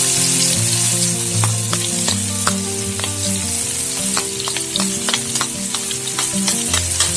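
Chopped onions sizzling and frying as they drop into hot ghee in a wok, with a spoon clicking and scraping against the plate and pan as it pushes them in.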